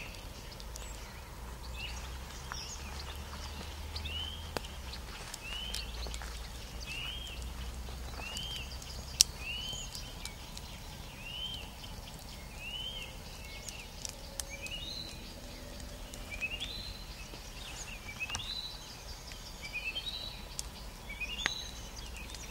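A bird repeats a short, upward-arching chirp about once every second and a half, then switches to more varied chirps later on, over a low rumble. A few sharp clicks are scattered through, one loud about nine seconds in.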